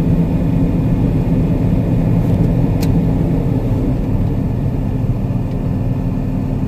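Engine of a farm vehicle running steadily at an even speed, a low drone with no revving. A brief click about three seconds in.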